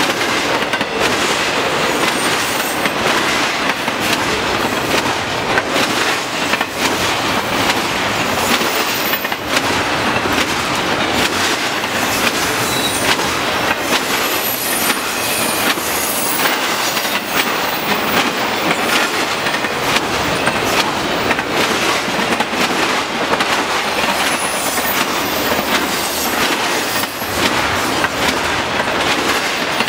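Loaded double-stack intermodal well cars rolling past at speed: a loud, steady rush of steel wheels on rail with rapid clickety-clack over the rail joints, and now and then a faint high wheel squeal.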